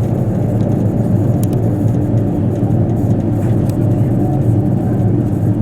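KiHa 85 series diesel express train running at speed, heard from inside the car: a steady drone of diesel engines and wheel-on-rail rumble, with a few faint clicks.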